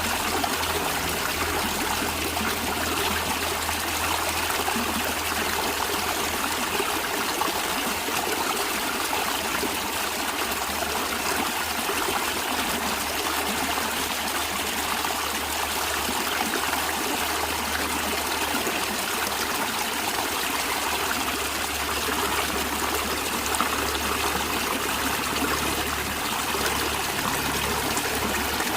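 Natural stream of water running steadily, an even, unbroken rush.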